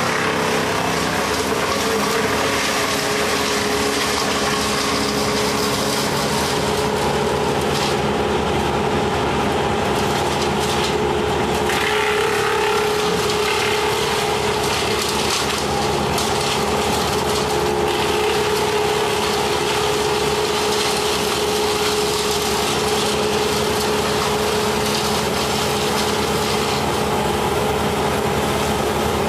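Engine of tree-removal equipment running steadily at a constant speed, with an even drone and some rougher noise around twelve seconds in.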